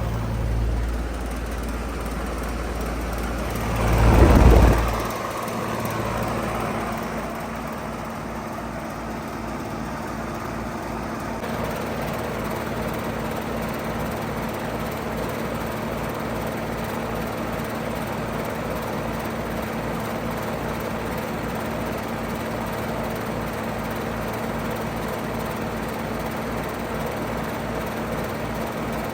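2009 five-ton Payne PH13 heat pump outdoor unit running in heat mode, a steady mechanical hum. About four seconds in comes a loud rush of noise lasting about a second, after which the unit settles into a steady, even running sound.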